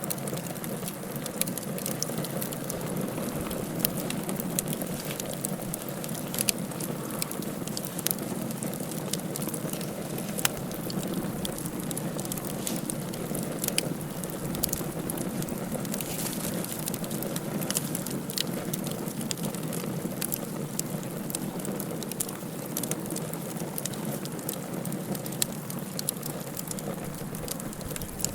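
Wood fire burning in a fireplace: a steady low rush of flame with irregular sharp crackles and pops.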